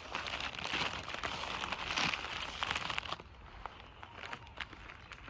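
Crinkling of wrapping or a bag being handled for about three seconds, then quieter with a few light clicks.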